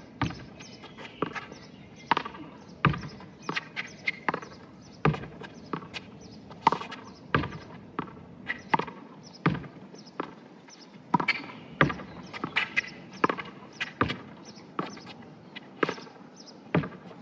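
Small rubber handball smacked repeatedly by hand against a wall, sharp slaps about two a second in an uneven rhythm.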